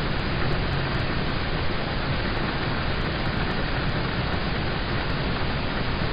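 Steady rain falling on a car, heard from inside the cabin as an even, unchanging wash of noise.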